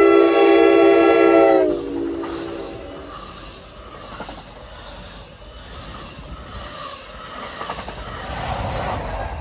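NJ Transit double-deck commuter train sounding its horn as it passes: one loud chord of several notes that drops in pitch about a second and a half in and fades soon after. Then the coaches running past over the rails, with some clickety-clack, the noise swelling again near the end.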